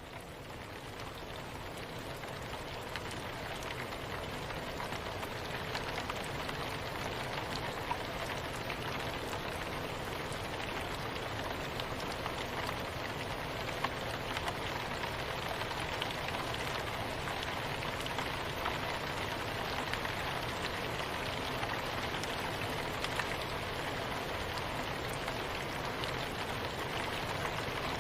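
Steady soft rain, a dense hiss with scattered individual drops ticking. It fades in over the first few seconds, then holds level.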